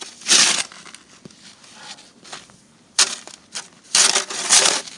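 Snow shovel scraping and crunching through deep snow in a few separate strokes, the longest near the end.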